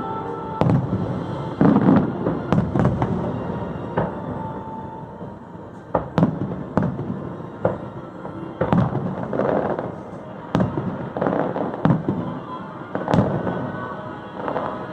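Fireworks going off in a rapid string of sharp bangs and crackles, about one or two a second, with show music playing underneath.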